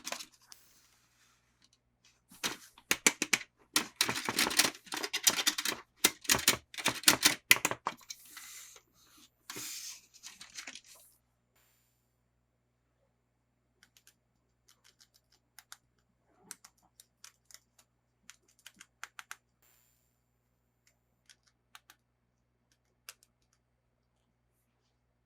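Toy packaging being opened and handled close to the microphone: a dense run of rapid plastic clicks and crackles for several seconds, then a few seconds of rustling, then scattered faint light clicks.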